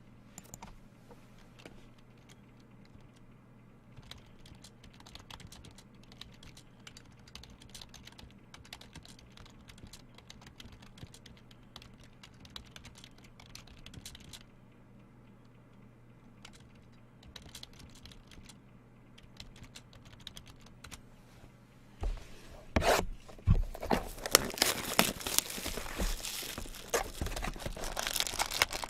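Faint, scattered clicking of trading cards being handled, then after about 22 seconds loud crinkling and tearing as the wrapping on a sealed box of trading cards is ripped open.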